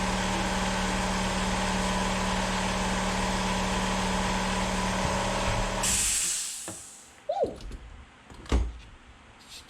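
Air compressor motor running steadily, then shutting off about six seconds in with a short hiss of released air. A few clanks and knocks follow.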